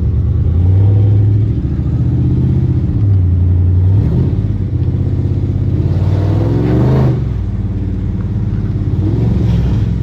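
Car engine and exhaust running loudly while the car is driven, with a rev that rises and falls about six to seven seconds in before it settles lower.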